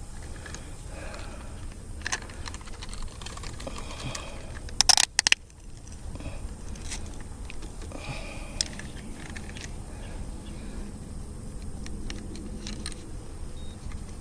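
Small clicks, taps and rattles of hands handling a caught bass and a hand-held fishing scale, with a quick cluster of sharp knocks about five seconds in.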